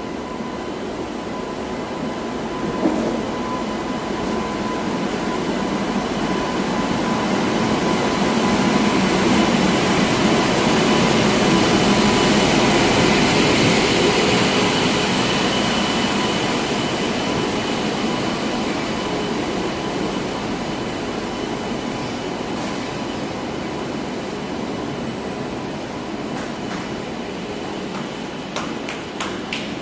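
A passenger train hauled by a WAP7 electric locomotive rolling in along a station platform. Its wheels rumble on the rails, building to their loudest about halfway through and easing off as the coaches slow. Near the end comes a run of sharp wheel clicks over rail joints.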